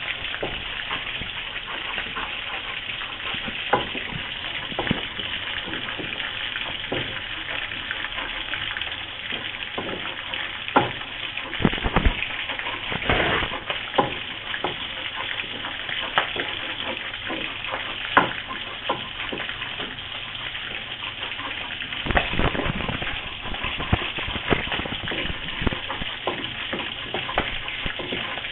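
Food frying in hot oil: a steady sizzle, with scattered clicks and scrapes of a spatula stirring chopped chillies and shallots in the pan.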